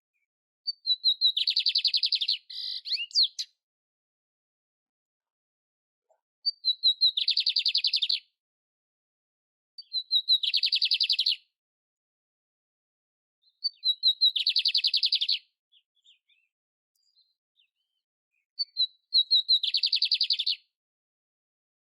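A canary singing: five short song phrases with pauses of a few seconds between them, each opening with a few quick high notes and running into a fast, rattling trill.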